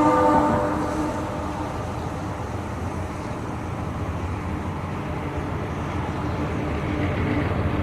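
Steady low rumble of a diesel locomotive running on the railway. A held chord of tones dies away in the first second.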